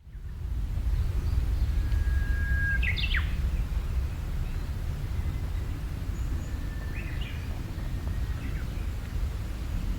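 Wild birds calling: two clear calls, about three and seven seconds in, each a short held whistle followed by a quick sharp note, with fainter calls between. Beneath them runs a steady low rumble of background noise, the loudest sound.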